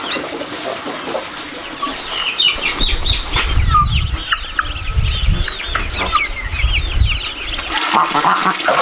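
Chickens clucking, with a fast run of short, high calls from about two and a half seconds in until near the end, over a low rumble.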